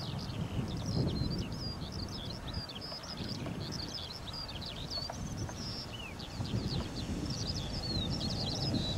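Small birds chirping and trilling in quick, continuous short notes, over a gusty low rumble of wind on the microphone.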